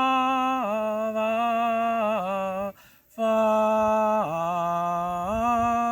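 A single voice singing a slow worship chorus, holding long notes on the word 'Father' that step down in pitch, with a short breath pause about three seconds in.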